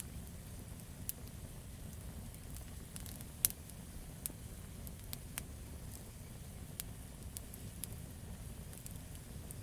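Campfire burning: wood crackling with irregular sharp pops, the loudest about three and a half seconds in, over a steady low rumble.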